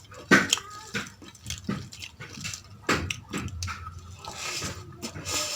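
Close-up eating sounds: wet chewing and mouth smacks on mutton tahari rice with gravy, in a run of irregular sharp clicks.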